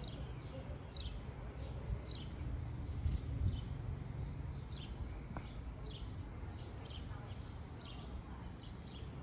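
A songbird chirping repeatedly, short high calls about once a second, over a low rumble of wind on the microphone.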